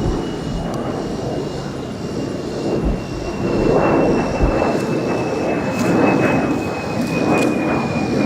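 Jet aircraft taking off, its engine rumble swelling and ebbing in waves, with a thin high whine that slowly falls in pitch.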